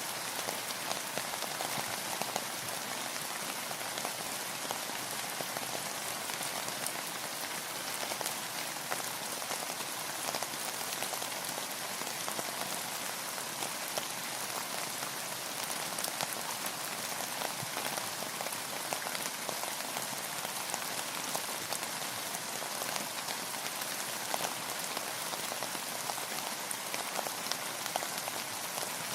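Steady rain falling, a dense even hiss of drops with many small individual drop ticks.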